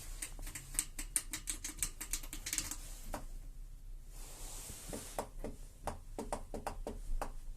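Rapid clicks of fingers pressing the membrane buttons on a treadmill's console, with a short pause in the middle. No beep answers the presses, the sign of a dead control board.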